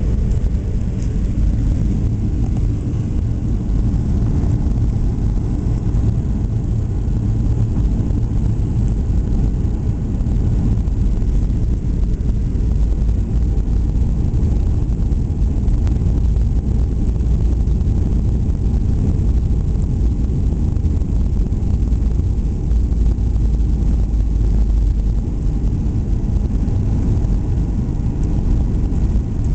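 Steady low cabin roar inside a Boeing 737-800 airliner: its CFM56-7B turbofan engines and the airflow over the fuselage, heard from a passenger seat.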